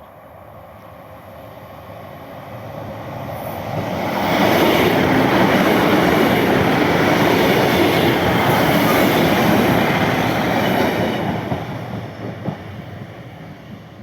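A train passing at close range: its noise builds over about four seconds, stays loud for about seven, then fades away.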